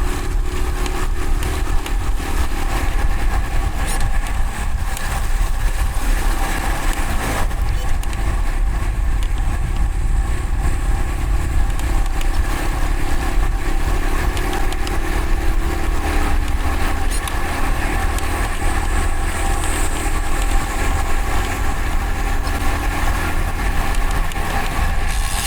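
Steady riding noise from a road bike's mounted microphone: wind rush and tyre rumble, with motor traffic in the mix.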